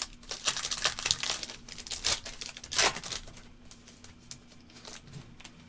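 Foil trading-card pack being crinkled and torn open by hand: a run of rustling, tearing bursts over the first three seconds, the loudest near three seconds in, then quieter handling.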